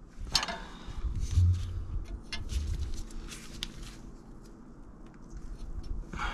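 Scattered sharp clicks and knocks with light rustling, and a dull low thump about one and a half seconds in.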